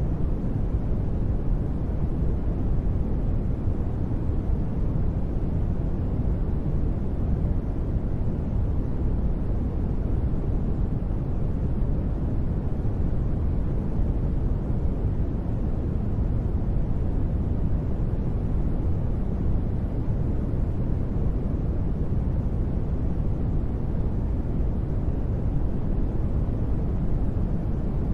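Continuous sleep-noise track: a steady, even hiss-like noise weighted heavily toward the bass, a deep rumble with little high hiss, unchanging throughout.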